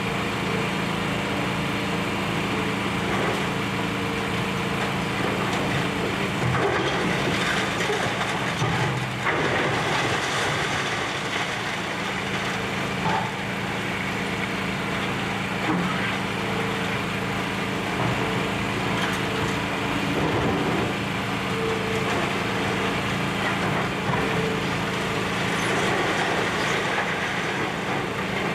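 Diesel engine of a hydraulic excavator running steadily under demolition work, with irregular stretches of crunching and clattering debris over it, the clearest about a quarter of the way in and again past the middle.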